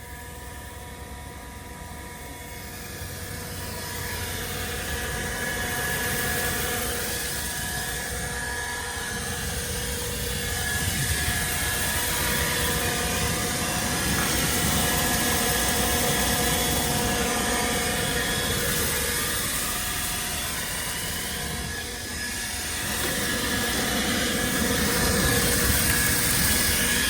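A steady machine drone with a constant hum in it. It grows louder over the first few seconds, then swells and eases through the rest.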